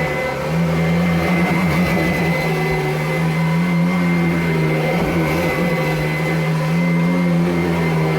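Kirby Avalir upright vacuum cleaner running steadily on carpet: a strong motor hum with a thin high whine over it, the pitch dipping briefly a couple of times.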